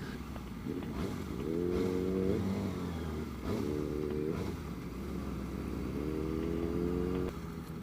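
Motorcycle engine revving up three times at low speed, each rise in pitch cut off after about a second, over a low rumble of wind and road noise.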